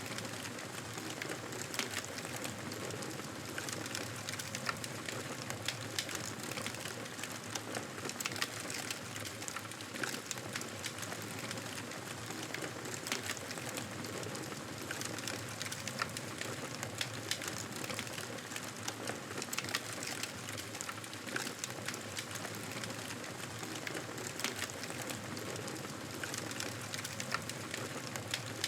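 Fireplace wood fire crackling steadily: a constant soft hiss with many small sharp pops scattered throughout.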